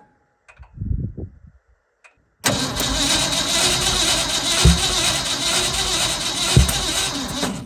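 Old Ford F100's engine turned over by the starter for about five seconds without catching, with two sharp backfiring thumps during the cranking; the backfiring is typical of spark plug wires set to the wrong firing order.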